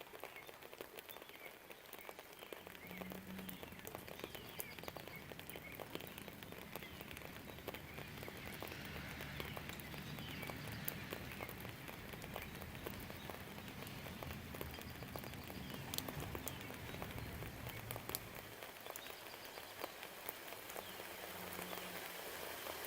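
Steady rain with individual drops ticking close by, under a long, low distant rumble that builds a couple of seconds in and fades out near the end. Faint birdsong.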